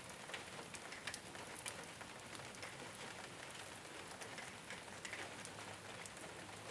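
Rain falling steadily on a rooftop, an even patter with many separate drops striking close by.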